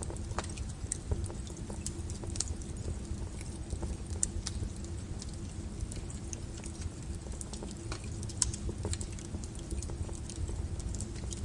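Wood fire burning: a steady low rumble of flames with irregular crackles and sharp pops from the burning logs.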